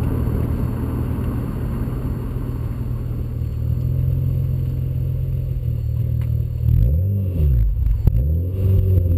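V6 car with an aftermarket J-pipe and cat-back exhaust idling with a steady low exhaust note. About seven seconds in it is revved twice in quick succession, the pitch rising and falling each time.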